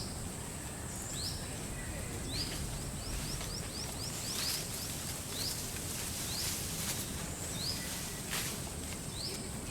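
A bird repeating short rising chirps about once a second, with a quick run of several chirps around three to four seconds in, over a steady high insect drone and a low outdoor rumble.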